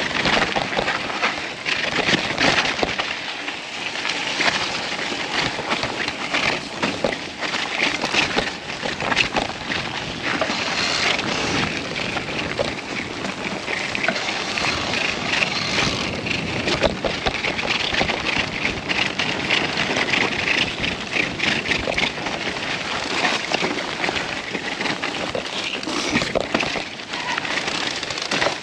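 Rain and mountain-bike tyres on a wet, muddy trail: a steady dense crackle and patter full of small clicks, with wind on the microphone.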